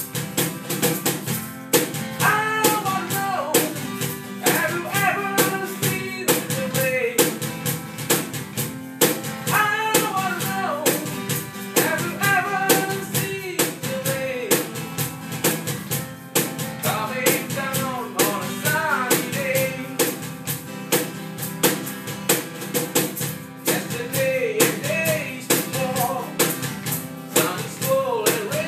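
Rock band playing: a drum kit keeping a steady beat under guitar, with a singer's voice coming in phrases every few seconds.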